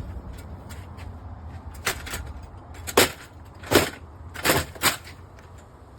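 A series of sharp, irregular knocks, about five in three seconds, the loudest near the middle, over a steady low hum.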